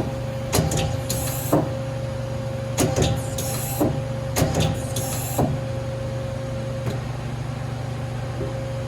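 Doosan Lynx 220LC CNC turning center running under power: a steady low hum with a steady mid-pitched tone. During the first five seconds a series of clicks and short hissing bursts breaks in, then the hum runs on steadily.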